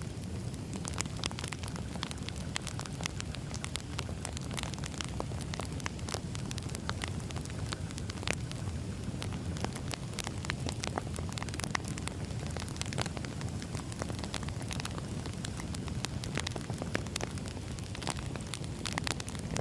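Firewood burning: a steady low rumble of flames with frequent sharp, irregular crackles and pops from the burning logs.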